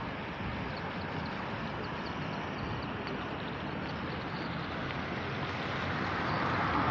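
Floodwater of a swollen river rushing steadily, a little louder near the end.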